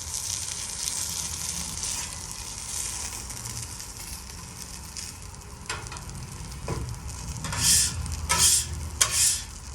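Breaded chicken thighs shallow-frying in canola oil on a very hot flat-top griddle, sizzling steadily. A couple of sharp clicks come past the middle, then three or four loud surges of spitting sizzle near the end as the hot oil spatters.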